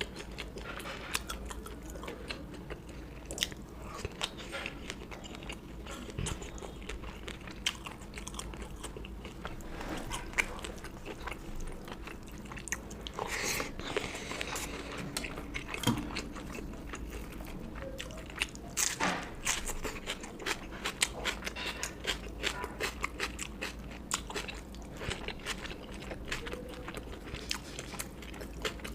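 Close-miked eating: a person biting and chewing food, with many small wet mouth clicks and occasional crunches.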